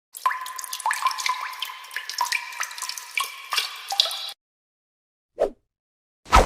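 Water dripping and plinking, many quick drops over a light trickle, stopping abruptly about four seconds in. Two brief swishes follow near the end.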